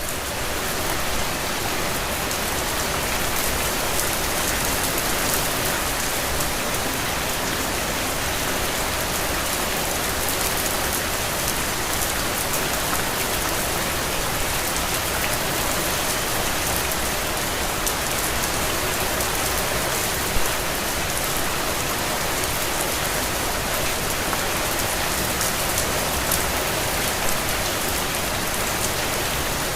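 Steady rain falling outdoors, a dense even patter of drops on surfaces, building up over the first second and then holding level, with one brief louder drop about twenty seconds in.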